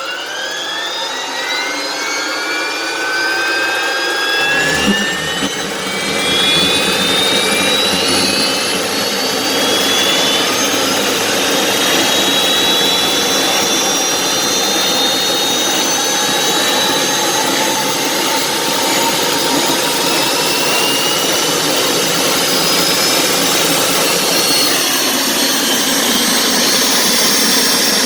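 PZL-Świdnik Mi-2 helicopter's GTD-350W turboshaft engine spooling up through its start cycle, cranked by its STG-3 starter-generator. A rising turbine whine climbs over the first ten seconds or so, a deeper rush joins about four and a half seconds in, and the sound then settles into a steady high whine.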